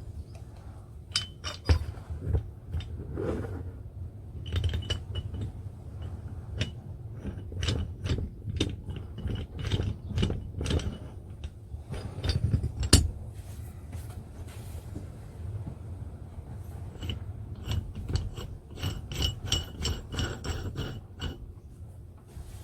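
Metal parts of an old car jack clinking, scraping and clicking as it is put back together: an irregular string of small knocks, the loudest about 13 s in.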